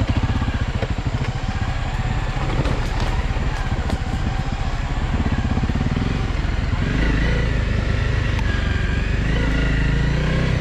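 Honda CRF250L Rally's single-cylinder engine running at low speed. Its pulses steady and the note grows a little louder about seven seconds in.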